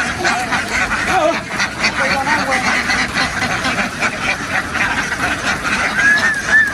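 A large flock of domestic ducks quacking continuously, many overlapping calls at once.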